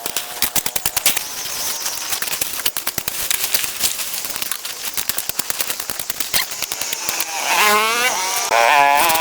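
Small two-stroke engine of a handheld power tool running with a rapid firing rattle, revving up twice near the end.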